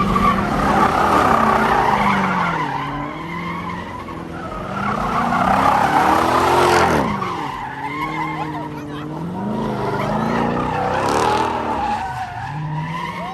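A car's tyres squealing and skidding as it spins them under power, its engine revving up and falling back again and again.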